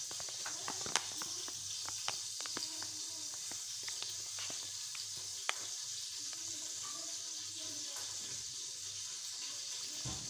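A spoon stirring shredded boiled chicken and chopped cabbage into mayonnaise in a bowl, with wet squelching and frequent light clicks of the spoon against the bowl.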